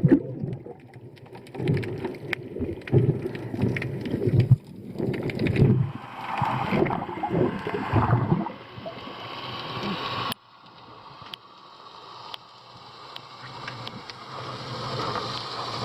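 Water sloshing and gurgling around a snorkelling spearfisher in choppy sea, irregular for the first several seconds. About ten seconds in it cuts off abruptly and gives way to a steadier rushing water noise that slowly grows louder.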